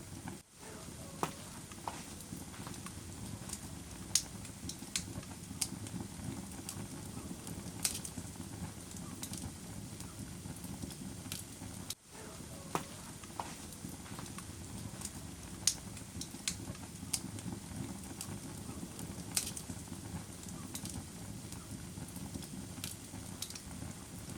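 Wood fire burning in a fireplace: a steady low rush of flame with irregular sharp crackles and pops. The sound dips out for an instant twice, near the start and about halfway through.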